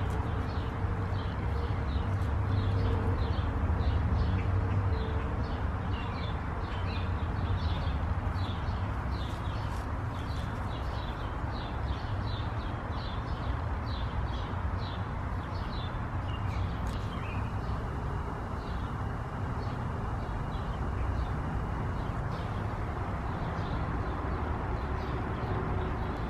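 Outdoor ambience: small birds chirping in quick repeated short notes over a steady low rumble.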